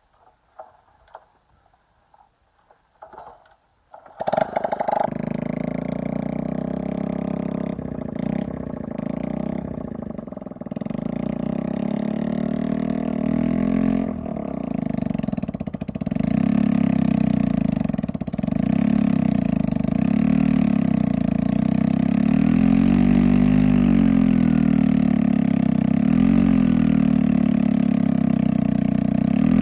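An engine starts abruptly about four seconds in and keeps running with a steady rhythmic beat. It grows louder in swells over the next ten seconds, then settles into an even run.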